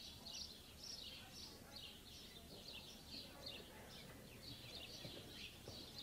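Small birds chirping faintly and repeatedly, about two or three high chirps a second, over a low steady hiss.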